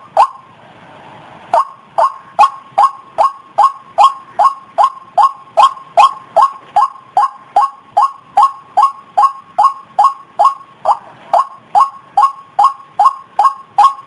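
White-breasted waterhen (ruak-ruak) call played as a bird lure: a long, evenly paced series of short repeated notes, about two and a half a second, after a brief gap about a second in.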